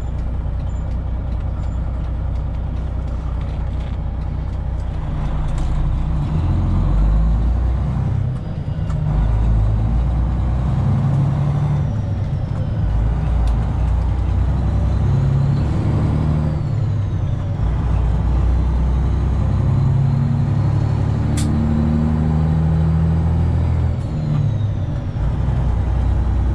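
Straight-piped Detroit Diesel 12.7-litre Series 60 engine of a Freightliner Classic XL semi truck running under way, heard from the cab; its pitch steps up and down several times, with a brief dip about eight seconds in.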